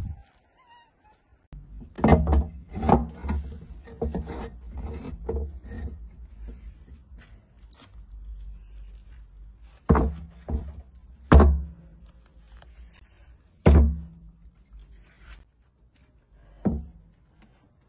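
A quick run of sharp knocks and clatters from hard objects being handled, then four separate thuds a couple of seconds apart.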